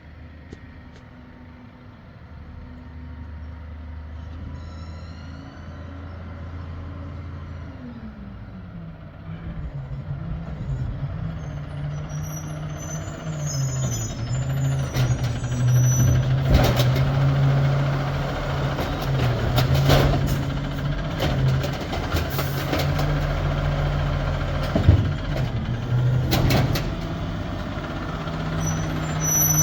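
Amrep garbage truck working a pickup: the engine speeds up about eight seconds in and holds there while the hydraulics run. Repeated knocks and clatter follow, with a few brief high squeals.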